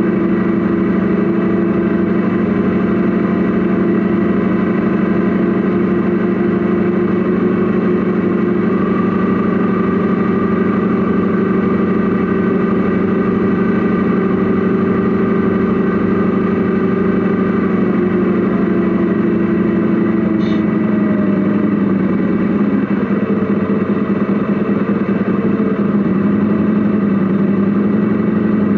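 Radio-controlled Mercedes Actros SLT model truck running, heard from inside its cab: a steady engine-like drone whose pitch shifts about two thirds of the way through.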